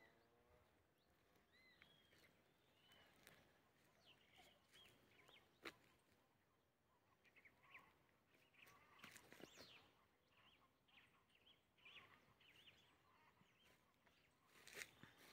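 Faint birds calling, short high chirps and whistled notes scattered throughout, with a sharp click about six seconds in and a few softer ones near the end.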